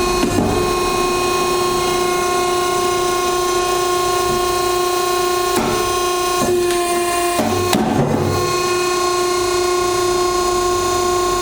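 Commercial hydraulic log splitter (SSLJ100-600H) running with a steady whine from its hydraulic pump as the four-way cross wedge is pressed into a large log. Several sharp cracks come in the second half, between about five and eight seconds in, where the whine briefly dips under load.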